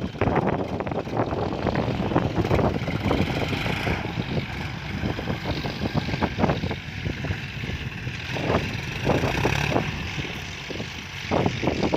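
John Deere utility tractor's diesel engine running steadily under load as it pulls a six-disc plough through the field, with uneven rumbling gusts of wind on the microphone.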